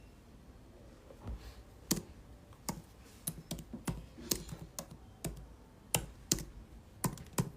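Typing on a computer keyboard: irregular, fairly faint key clicks.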